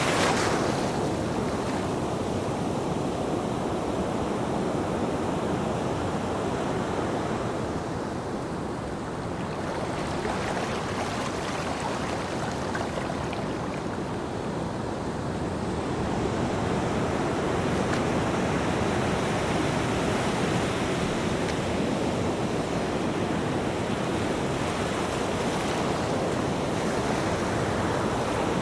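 Ocean surf washing onto a beach: a continuous rushing wash that swells and eases slowly as the waves come in, quieter about a third and half of the way through, then fuller again.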